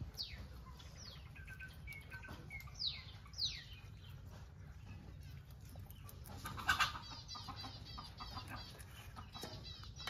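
Birds calling: several sharp downward-sweeping calls in the first few seconds, then quick runs of rapid chirps from about seven seconds in, over a low steady rumble.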